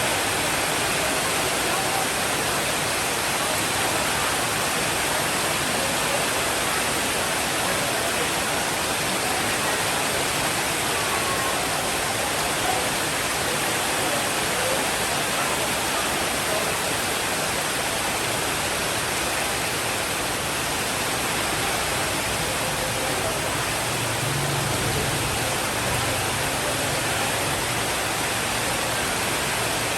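Steady, even rainfall hiss. A soft low rumble of distant thunder comes in a little past the three-quarter mark.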